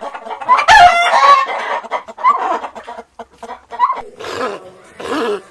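Animal calls: a loud pitched call with a wavering, falling pitch about a second in, then a string of shorter calls, and two more calls near the end.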